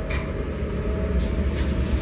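Komatsu PC200-8AC hydraulic excavator's diesel engine running under work with a steady low rumble, and short hisses twice.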